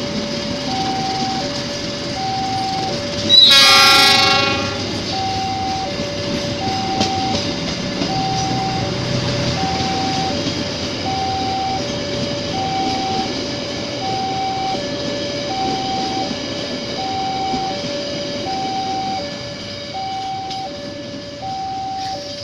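Level-crossing warning alarm sounding an alternating two-tone chime throughout. A diesel locomotive gives one short, loud horn blast about three and a half seconds in, then the train rumbles past over the rails.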